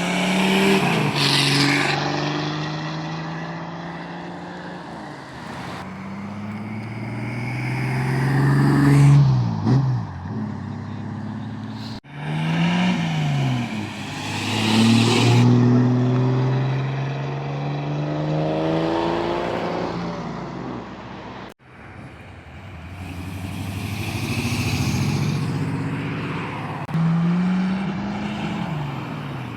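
Vehicle engines revving and accelerating hard away in a series of launches, engine pitch rising and falling with gear changes. Abrupt cuts about 12 and 21 seconds in start a new launch each time.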